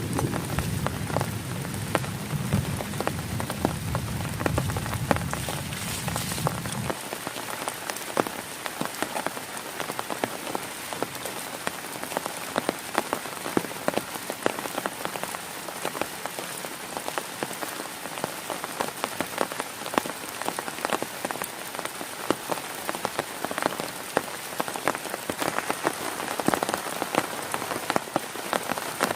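Heavy rain falling on a tent, a dense steady patter of drops on the fabric. A low rumble underneath stops abruptly about seven seconds in.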